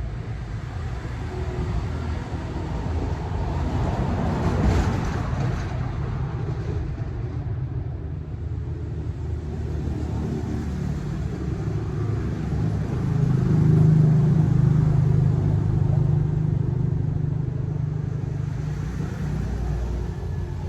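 Motor vehicle running steadily on the move, engine drone with road and wind noise, growing louder about two-thirds of the way through.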